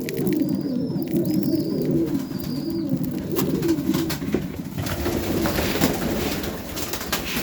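Several domestic highflyer pigeons cooing together in a continuous, overlapping warble, with a few short high chirps early on and scattered light clicks.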